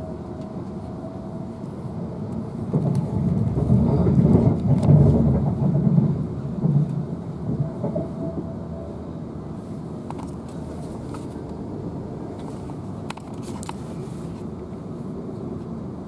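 Cabin sound of a Siemens Desiro electric multiple unit running at speed: a steady rumble of wheels on rail. The rumble swells louder from about two and a half seconds in, then settles back, and there are a couple of sharp clicks near the end.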